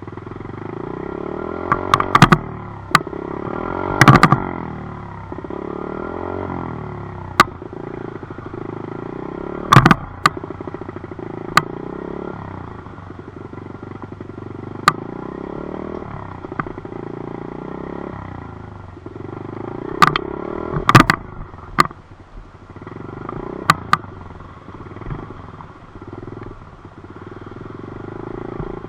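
Dirt bike engine running under way, its pitch rising and falling with the throttle, with sharp knocks and rattles now and then, loudest about 4 and 21 seconds in.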